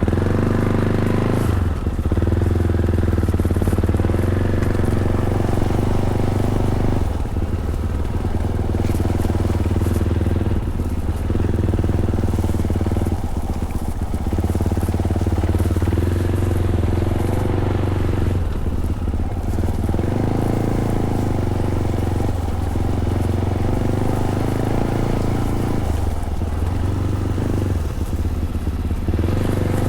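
Fantic Caballero 500's single-cylinder four-stroke engine running through its stock Arrow exhaust, pulling under throttle. It drops off briefly about every three to six seconds as the throttle is rolled off and on.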